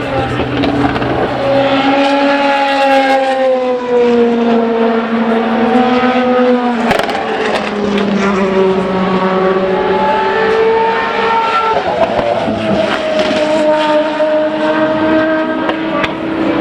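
Race car engines at speed, several engine notes overlapping and slowly sliding in pitch as the cars pass, with a brief sharp crack about seven seconds in.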